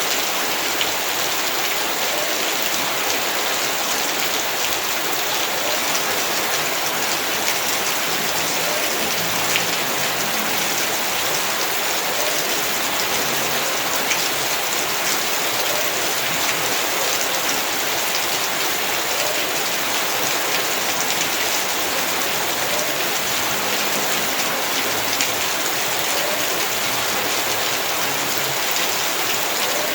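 Heavy rain falling steadily as a dense, even hiss, with the odd louder drop standing out.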